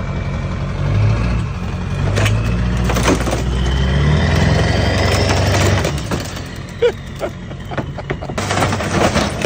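A vehicle engine running hard under load for several seconds as it pulls a chained section of camper, with a rising whine partway through. It then drops back, and several sharp cracks and knocks sound as the camper structure gives way.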